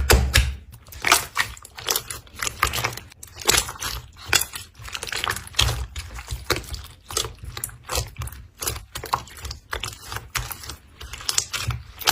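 Slime being squeezed and poked, giving a dense, irregular run of small crackles and pops with soft low thuds.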